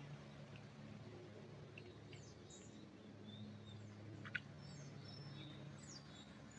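Faint forest birdsong: scattered short chirps and whistles from small birds, over a low steady hum. A single sharp click sounds about four seconds in.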